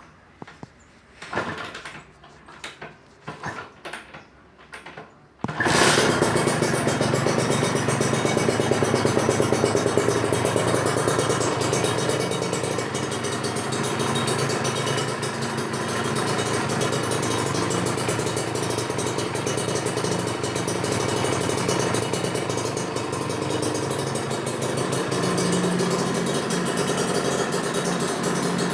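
Kawasaki Ninja motorcycle engine with a left-routed aftermarket exhaust being started: several short cranking attempts, then it catches about five seconds in and idles steadily through the exhaust.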